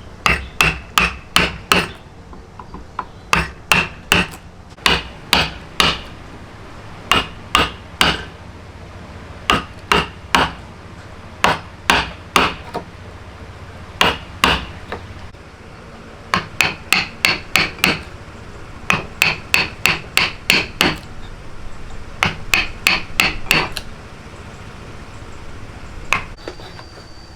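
Hand hammer blows in quick runs of four to six strikes, with a short pause between runs; each blow rings briefly. A faint steady high tone begins near the end.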